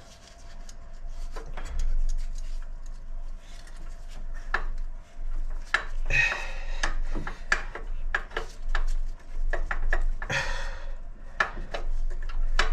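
Metal hand tools clinking, knocking and scraping against engine parts: a long run of irregular clicks and knocks, with two short rasping stretches about six and ten seconds in.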